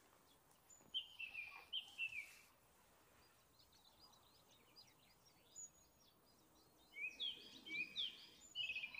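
Songbirds singing: a burst of chirping notes with falling whistled slurs about a second in, fainter twittering after it, and a second, louder burst near the end.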